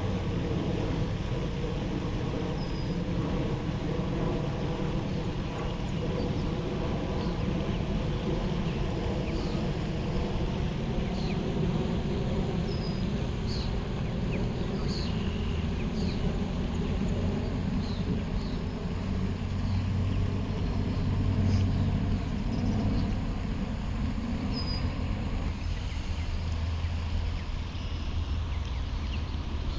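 Steady low engine rumble of road traffic or a running motor, with a few faint, short, high bird chirps scattered through it.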